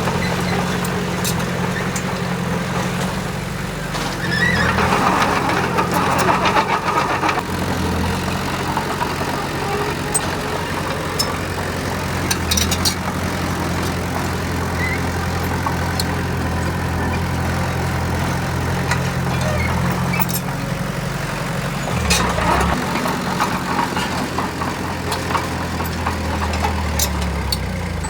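Heavy diesel engine of earthmoving machinery running steadily, with louder, harsher stretches about five seconds in and again near twenty-two seconds, over scattered clanks.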